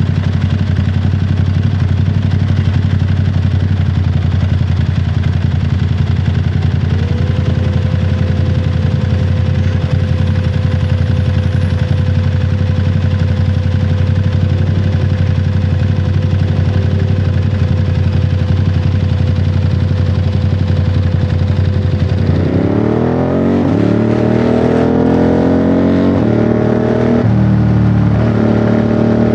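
Ducati Monster 937's 937 cc Testastretta V-twin engine pulling at a steady speed, then accelerating hard about three-quarters of the way in, revs climbing with a gear change near the end.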